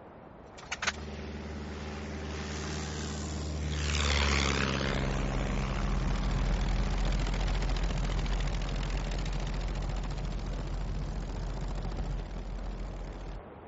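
Piston engine of a propeller aircraft droning steadily. It swells to its loudest about four seconds in, like a plane passing close. It then settles into a lower, rougher rumble that cuts off suddenly near the end.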